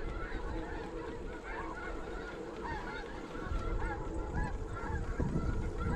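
A flock of snow geese calling, many short, high, overlapping honks at once. Wind buffets the microphone with a low rumble that grows stronger about halfway in.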